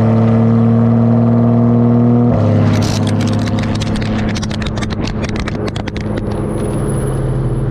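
Porsche 991.2 GT3 RS flat-six running through Dundon street headers and crack-pipe exhaust at a steady engine speed, loud. About two seconds in the pitch drops slightly and a rapid run of sharp crackles and clicks follows for several seconds, before the pitch rises a little near the end.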